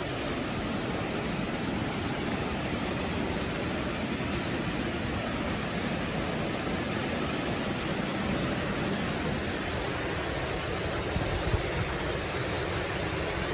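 Steady rushing of the Tentaki waterfall, an even wash of falling water, with one brief thump about eleven seconds in.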